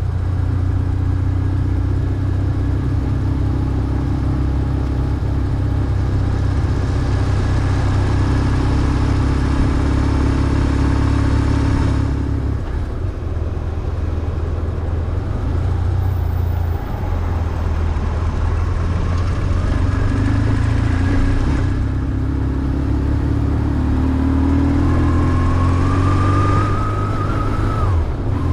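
BMW R1150GS motorcycle's flat-twin boxer engine running steadily under way. Its pitch rises toward the end as the bike accelerates.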